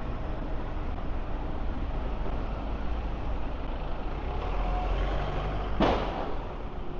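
Street traffic with a heavy vehicle's engine rumbling close by, and one short, sharp burst about six seconds in.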